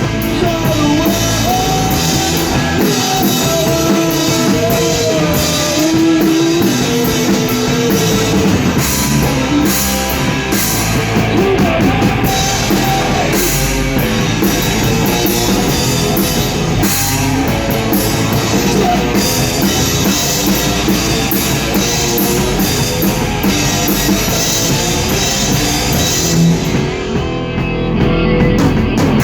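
A rock band playing a heavy instrumental passage on drum kit and electric guitars, with a lead guitar line bending over the top in the first half. The high end drops away near the end.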